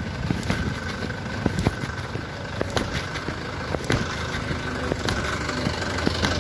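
An engine running steadily, with frequent sharp clicks and knocks over it.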